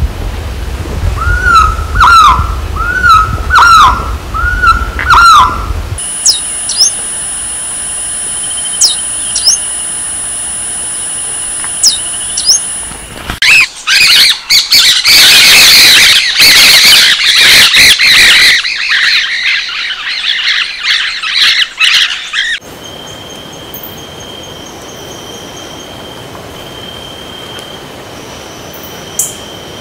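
White-tipped Quetzal calling: about five clear notes, each rising and falling, roughly a second apart. Then comes a stretch of steady high-pitched tones with a few sharp chips. Then Santa Marta Parakeets squawk and screech loudly for about nine seconds, the loudest part, which stops suddenly and leaves a faint steady high tone.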